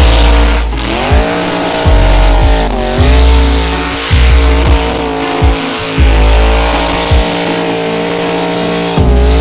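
A car engine held at high revs with tyre squeal, its pitch rising, holding and dipping briefly a few times, over music with a heavy, rhythmic bass beat.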